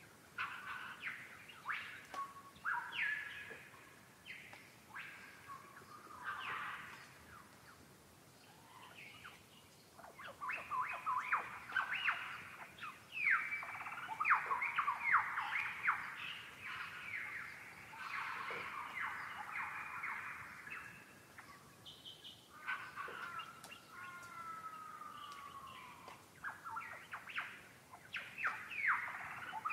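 Birds calling and chattering, a dense run of quick downward-sliding notes that thickens about a third of the way in. About three quarters through comes a slower call of a few long falling notes.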